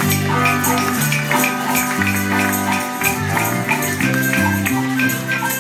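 Live Mexican popular music on accordion and guitars, with a tambourine jingling in a steady beat.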